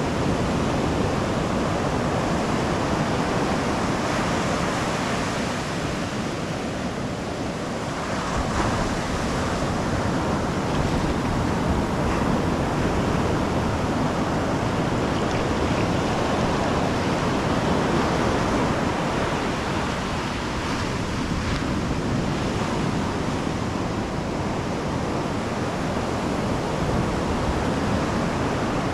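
Pacific Ocean surf breaking and washing up a sandy beach: a steady rush of waves that swells a little about eight seconds in.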